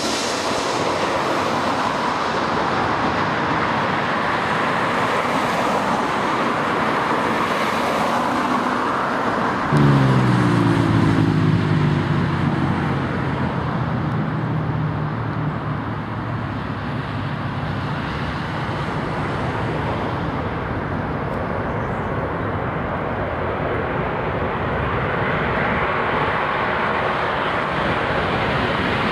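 Airbus A340 jet engines running, a steady loud rush of noise. About ten seconds in it jumps louder and a cluster of tones slides down in pitch, then holds steady for a few seconds before fading back into the rush.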